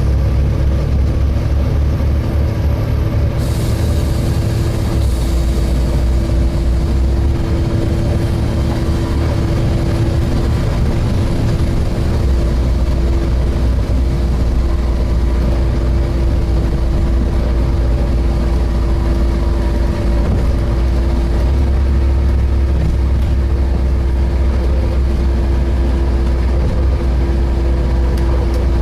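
Volvo B7TL double-decker bus's diesel engine running under way, heard from on board. The low engine note shifts about 4 s, 12 s and 21 s in, over a steady droning tone that runs throughout.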